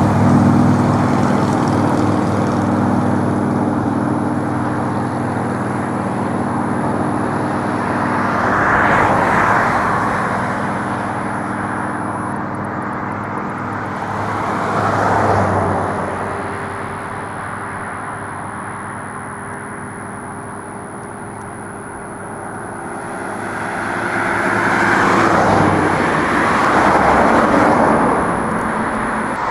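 Road traffic: a vehicle engine hums steadily at first and fades, then several cars pass by one after another.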